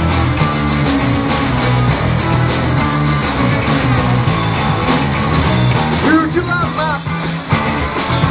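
Live rock band playing an instrumental passage with drums and bass, and a high line that bends up and down about six seconds in.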